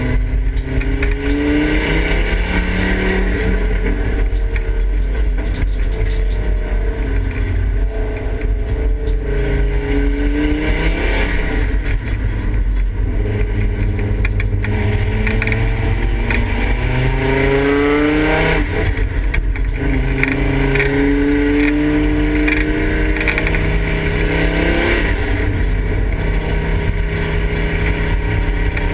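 Volvo 850 race car's inline five-cylinder engine heard from inside the stripped, roll-caged cabin, revving under hard acceleration on track. Its pitch climbs and then drops sharply at upshifts about three times, over a constant heavy rumble of road and wind noise.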